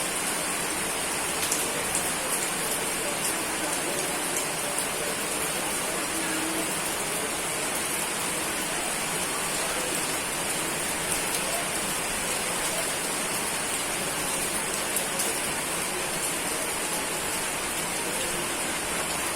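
Steady rain falling, an even hiss with scattered drops ticking sharply against it.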